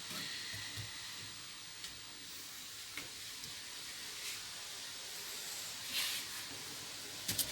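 A small fire of a homemade paraffin fire starter and kindling burning with a steady soft hiss, with a few faint ticks.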